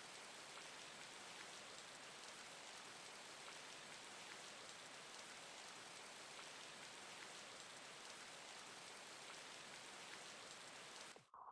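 Faint, steady rain falling: an even hiss with scattered drop ticks that cuts off abruptly near the end.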